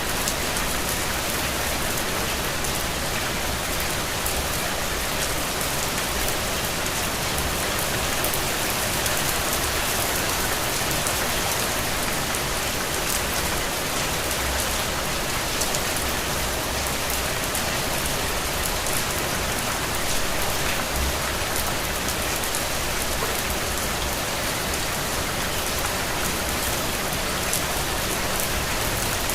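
Steady rain falling on a surface, a constant hiss thick with fine drop patter.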